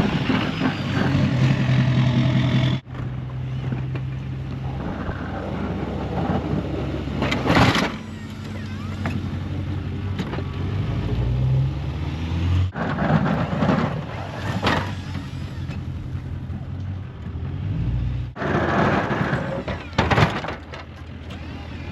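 Duramax diesel pickup truck running while plowing snow, its engine note steady in several short cut-together stretches, with a few brief louder swells.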